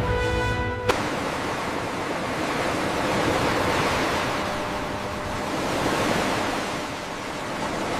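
Background music ends with a click about a second in, giving way to the steady rush of sea waves that swells and eases.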